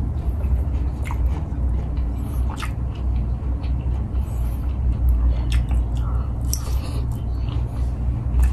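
A person chewing and biting into fried chicken coated in sambal, eaten by hand, with wet mouth clicks and smacks scattered irregularly over a steady low hum.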